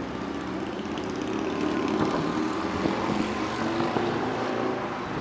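Distant fireworks bursting in quick succession, heard as a continuous rumble with a few soft thuds about two, three and four seconds in.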